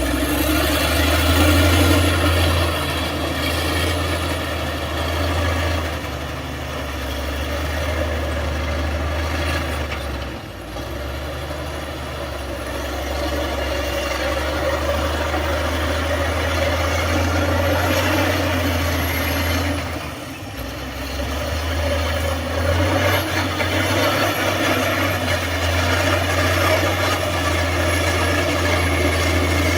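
Heavy diesel engine of an earthmoving machine running steadily with a deep drone, dipping briefly twice.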